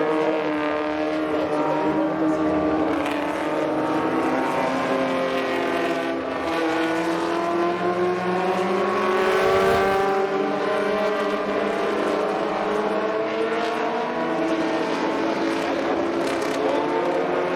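Engines of several vintage 1960s–70s Formula racing cars running at high revs, their pitches rising and falling as they accelerate and lift. The sound is loudest about ten seconds in, as one passes close.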